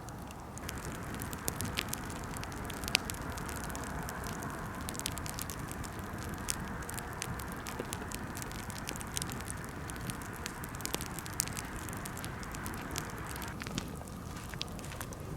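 Birch-wood campfire crackling, with frequent sharp pops and snaps over a steady hiss of burning that thins out near the end.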